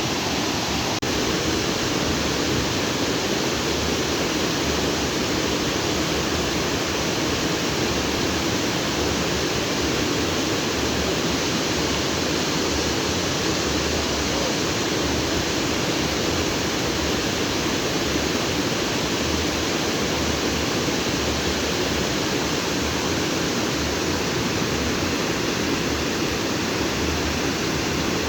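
Stream of water rushing over and between rocks, a steady, unbroken rush.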